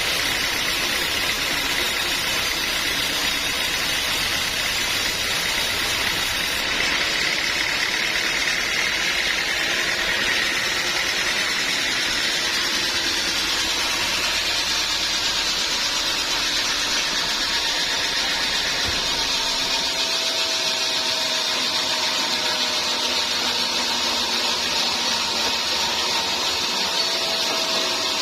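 Sawmill machinery running steadily, a continuous mechanical noise with a faint high whine and no breaks.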